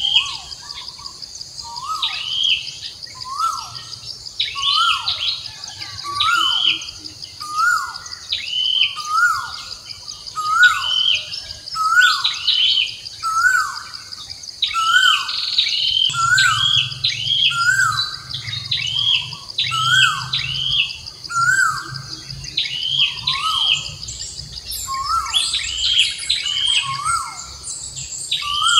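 A bird calling over and over, about one call a second, each a short note that rises sharply and falls, with a higher hooked note alongside. A steady high insect drone runs underneath.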